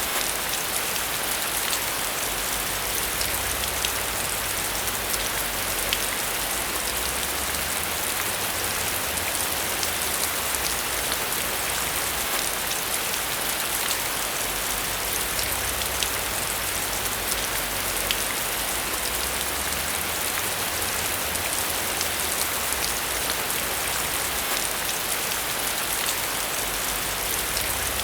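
Steady heavy rain falling, a constant hiss dense with fine individual drop patters.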